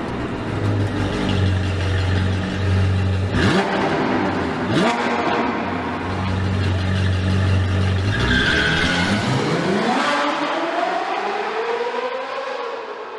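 A vehicle engine running and revving, its pitch rising in short sweeps and then in one long climb near the end.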